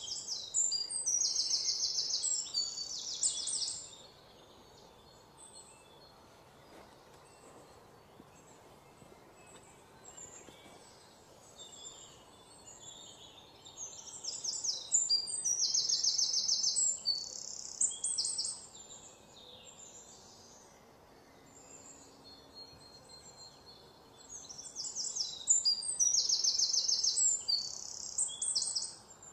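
A bird singing in three bouts of high, rapid trilled chirping. Each bout lasts about four seconds, and the bouts come roughly ten seconds apart with quiet between.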